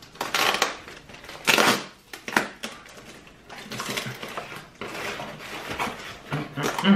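Packaging being rustled and crinkled by hand as a gift box is opened, in irregular bursts with several louder crackles.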